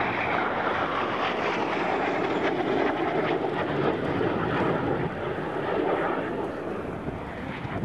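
Engine noise of an early single-engine military jet: a steady, loud rushing sound that eases a little near the end.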